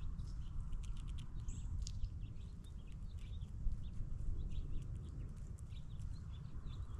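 Squirrels handling peanuts on a wooden feeding table: scattered small clicks and scratches, with a few faint bird chirps, over a steady low rumble.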